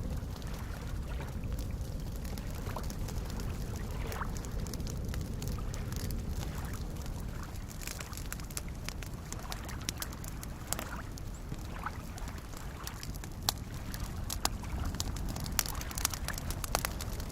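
Campfire crackling with scattered sharp pops, more frequent in the second half, over soft lake waves lapping with a steady low wash.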